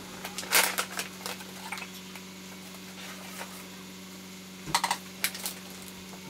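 Irregular sharp clicks and light clatter over a steady low hum, bunched in the first second or so and again about five seconds in.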